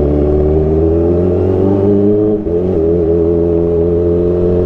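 Kawasaki ZX25R's 250 cc inline-four running through an Arrow Pro Race aftermarket exhaust at steady low revs, with a brief dip in pitch and level about two and a half seconds in.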